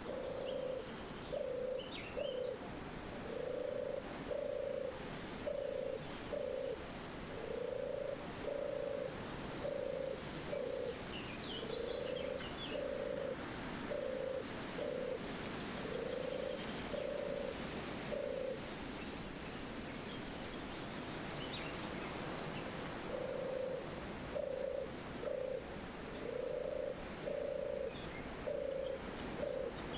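A dove cooing, a series of short low notes in pairs and groups that stops for a few seconds past the middle and then resumes, over a steady wind hiss with faint high bird chirps now and then.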